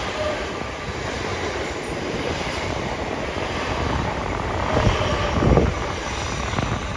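A train running past on the rails, a steady roar with a few low knocks about five seconds in.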